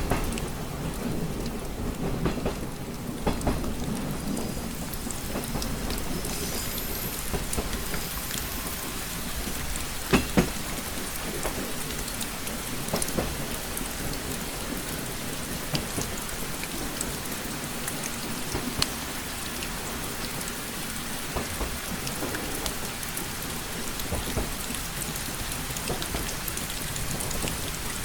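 Steady rain tapping on a train window, with many small drop ticks over a constant low rumble; two sharper ticks stand out about ten seconds in.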